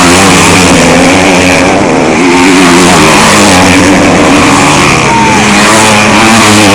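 Several motocross bikes' engines racing on the circuit, loud and close, their pitches wavering up and down as riders open and close the throttle through the corners.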